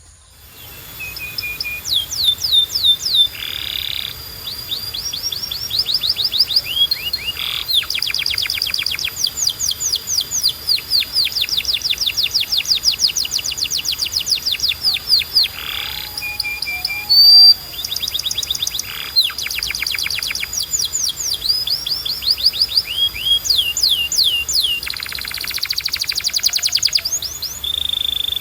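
Canary singing a long, continuous song of fast trills: runs of rapid, short sweeping notes that change speed and pitch from phrase to phrase, with only brief pauses.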